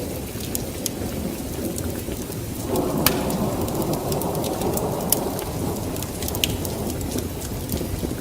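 Steady rain with a low rumble of thunder that swells about three seconds in, over scattered sharp crackles from a wood fire.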